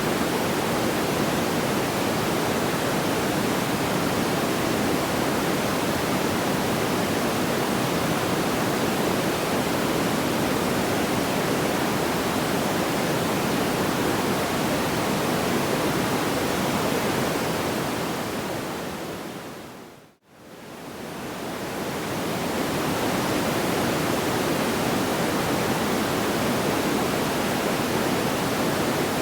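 Steady, even rushing noise with no distinct crackles or pops. About twenty seconds in it fades smoothly down to silence and straight back up, the seam of a looped track.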